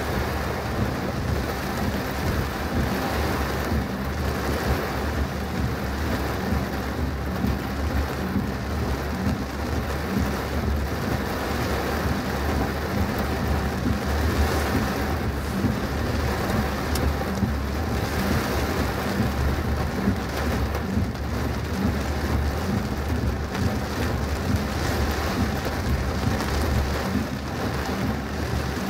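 Heavy thunderstorm rain drumming steadily and without letup on a car as it drives.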